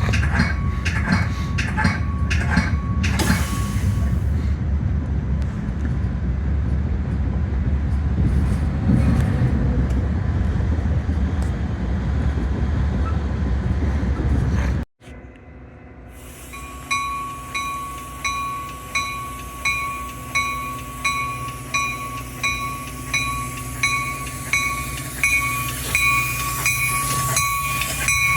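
Metra commuter train rumbling past at close range, heavy and low. After a sudden cut about halfway, a railroad crossing bell rings steadily, a little over once a second, over a quieter train rumble.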